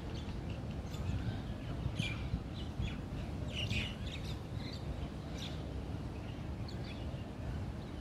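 Small birds chirping: many short, high chirps scattered through, busiest a couple of seconds in and around the middle, over a steady low rumble of outdoor noise.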